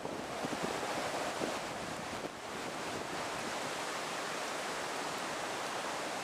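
Gusty wind and driving rain: a steady rushing hiss, with wind buffeting the microphone.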